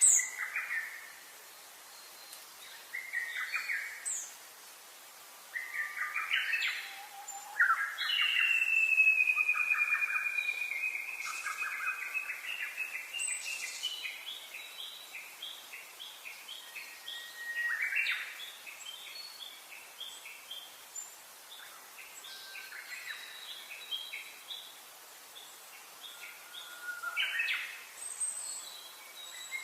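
Several wild birds calling and singing in short chirps and phrases, with a long falling whistle about eight seconds in that runs into a quick train of repeated notes. A faint steady hiss sits underneath.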